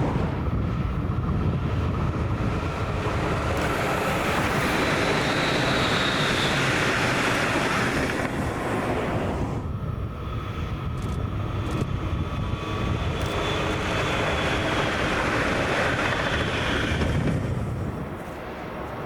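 A train running past: steady rumble and rushing with high whining tones, which dip about halfway and fade near the end.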